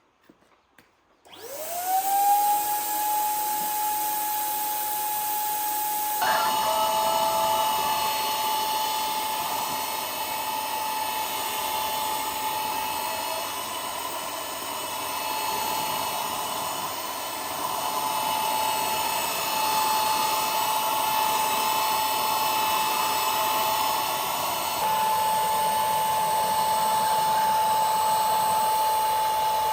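Electric power tool starting up, its motor whine rising quickly to a steady high pitch and running on. A rougher, louder noise joins about six seconds in, as the tool works against something, and the sound steps up again near the end.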